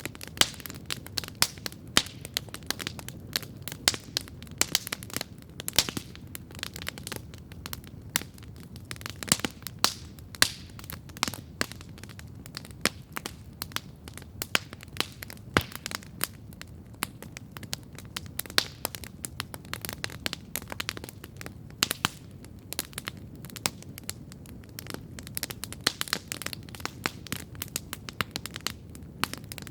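Wood campfire crackling and popping irregularly, several sharp snaps a second, over a low steady rumble.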